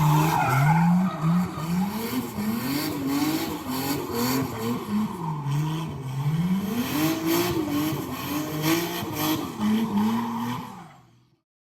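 Car engine revving up and down again and again, as in drift or race footage, with a noisy hiss over it; it fades out near the end.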